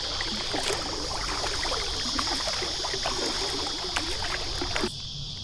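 Kayak paddle strokes, water splashing and dripping off the blades, stopping suddenly near the end. A steady high insect chirr runs underneath throughout.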